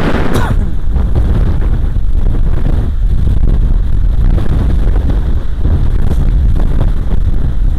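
Strong wind buffeting the microphone: a loud, uneven low rumble that rises and falls with the gusts.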